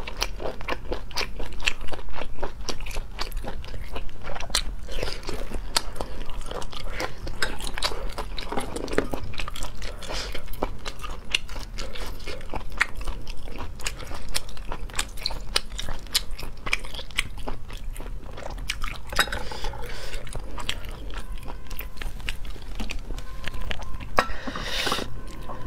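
Close-miked chewing of cooked sea snail meat: continuous wet chewing with many small irregular crunches and clicks. A brief louder hissing burst comes near the end.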